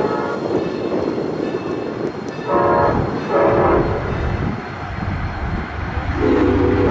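A train sounds its whistle, with two short blasts and then a long blast starting near the end, over the steady rumble of the train running on the rails.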